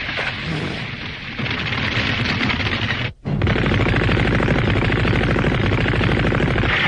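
Cartoon battle sound effects: rapid, continuous gunfire, cut off briefly about three seconds in and then resuming.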